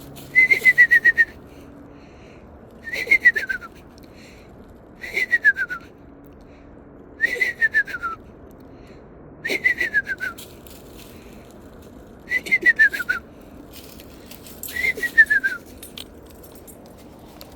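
A person whistling an imitation of a screech owl's descending whinny: seven short, wavering whistles, each sliding down in pitch, about two seconds apart.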